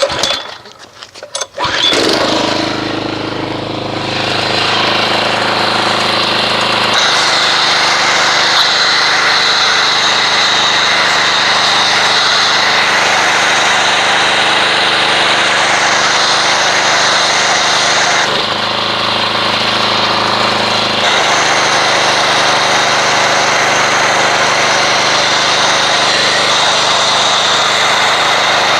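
Pressure washer comes on about two seconds in and runs steadily, driving an MTM PF22 foam cannon that sprays car-wash soap as foam with a loud hiss. The hiss eases for a couple of seconds about two-thirds through.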